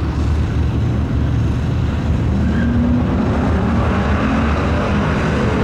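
Truck engine running with a loud, steady low rumble; a higher droning note joins about halfway through.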